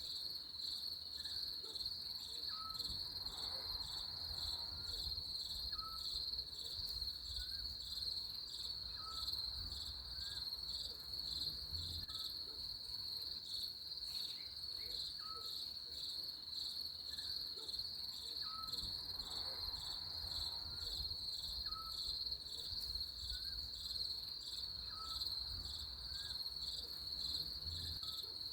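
Crickets chirping in a steady, fast-pulsing high trill, with a faint short chirp repeating lower down about every second and a half.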